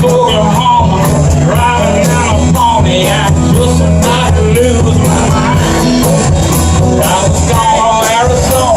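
Live rock-and-roll band jamming: a singer over bass, guitar and drums, with a cymbal or hi-hat keeping a steady beat.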